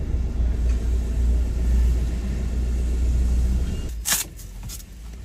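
Low engine rumble of a Fiat Ducato motorhome moving at low speed, heard from inside the cab. It drops away about four seconds in, with two sharp clicks close together.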